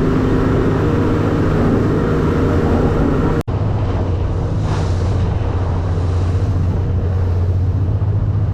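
Boat engine running steadily with an even low hum, cutting out for an instant about three and a half seconds in.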